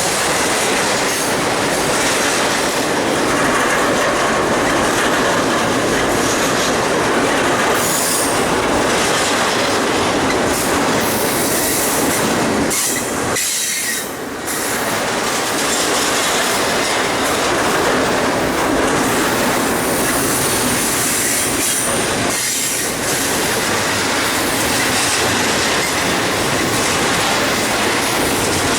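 A train's cars rolling past at close range: a steady, loud rumble of wheels on rail, with a brief drop in level about halfway through.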